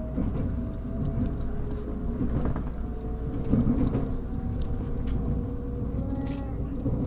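Cabin noise of a moving electric train: a steady low rumble of wheels on the rails, with a faint whine from the electric traction motors drifting slightly in pitch and a few light clicks.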